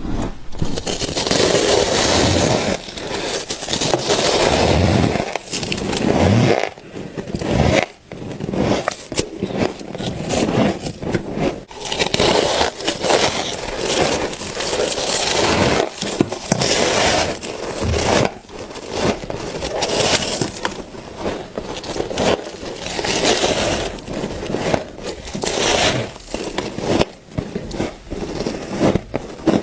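Loud, close crunching of frost being bitten and chewed: dense, irregular crackling and scraping.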